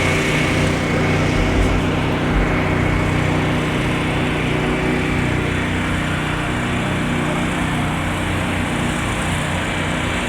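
A small engine running steadily: a constant, even-pitched drone that holds without change throughout.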